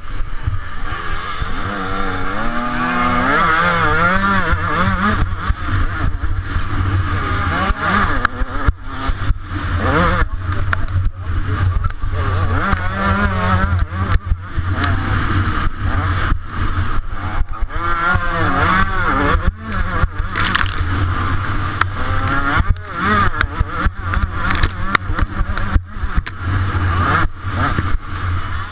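Two-stroke 125cc motocross bike racing on track. The engine revs up and down over and over, its pitch climbing and falling, with frequent brief throttle cuts.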